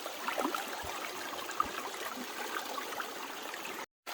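Stream water running steadily, with small splashes and light knocks as dirty cassava roots are washed in it. The sound cuts out completely for a moment just before the end.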